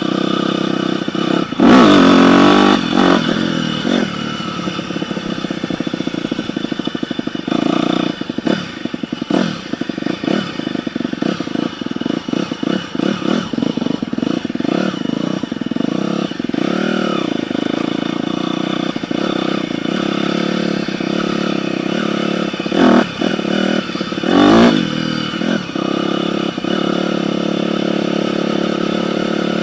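Dirt bike engine running and revving under changing throttle. There is a loud rev about two seconds in, choppy on-off throttle through the middle, and two sharp revs later on.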